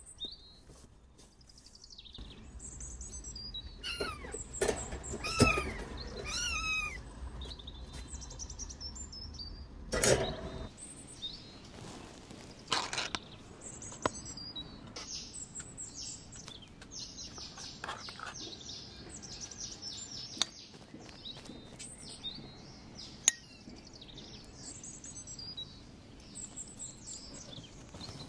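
Young kittens mewing as they feed, with many short high chirping calls throughout and a few sharp knocks.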